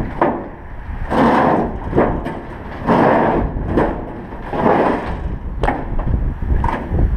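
A heavy scrap gas pump being shoved and slid along, with repeated grinding scrapes every second or two and several sharp metal knocks. Wind buffets the microphone throughout as a low rumble.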